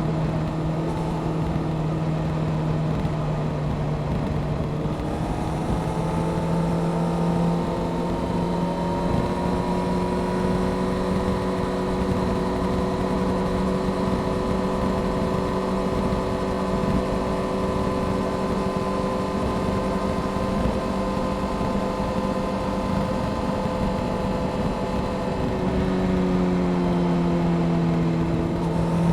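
Honda CBR600F Sport's inline-four engine with a Delkevic aftermarket exhaust, running at steady cruising revs over a steady rushing noise. The revs rise slightly about five seconds in, hold, dip near the end and pick up again.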